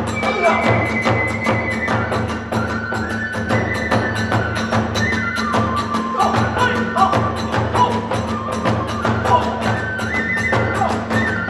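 Kagura hayashi ensemble playing at a fast, driving pace: a bamboo flute holds stepping melody notes over rapid, even strikes of drums and tebyōshi hand cymbals.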